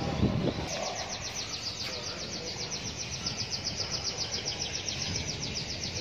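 A bird trilling: a rapid, unbroken run of high, falling chirps, about ten a second, starting just under a second in, over a low background hum.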